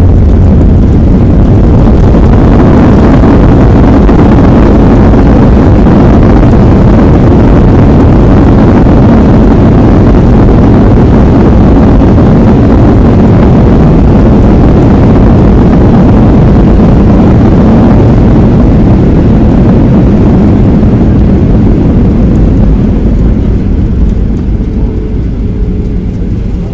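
Loud, steady roar of a Boeing 737-800's CFM56 jet engines and rushing air, heard inside the passenger cabin during the landing. It eases off over the last few seconds as the aircraft slows.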